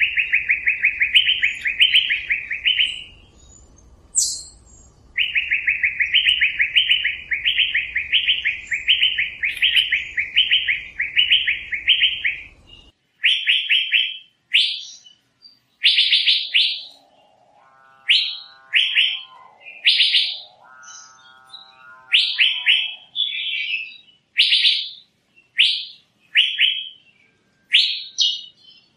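Asian fairy-bluebird calling: quick runs of repeated high, falling whistled notes, about two a second, then separate sharp single notes spaced a second or so apart. A quieter, lower sound comes twice near the middle.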